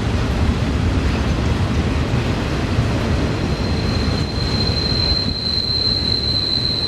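Freight train rolling past with a steady low rumble of wheels on rail. A high, steady wheel squeal joins about halfway through and holds.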